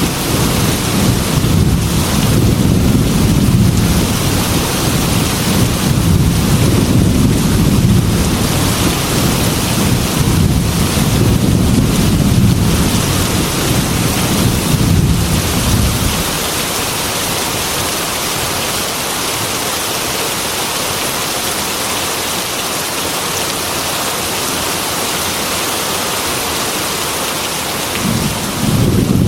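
Heavy rain falling steadily, with a long low thunder rumble that dies away about halfway through, leaving only the rain, and a fresh rumble starting near the end.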